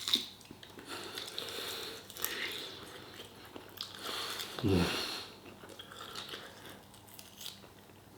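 A man chewing and biting food, soft irregular mouth crunches and smacks, with a brief falling hum of his voice about halfway through.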